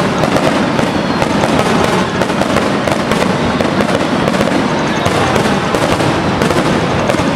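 Fireworks display: a dense, continuous crackling of many small bursts at a steady, loud level.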